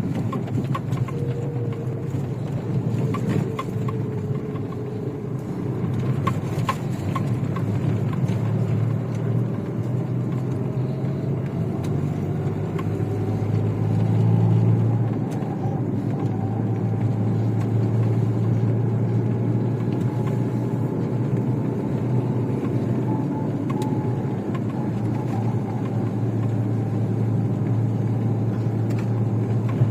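Chevrolet Niva driving, its engine running steadily, with a whine that slowly climbs in pitch. Several sharp knocks sound in the first seven seconds or so.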